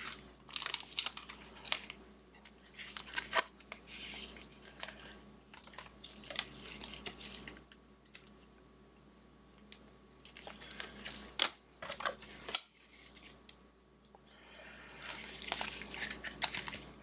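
Trading cards and their packaging being handled: irregular clusters of short clicks and rustles, with a couple of quieter pauses.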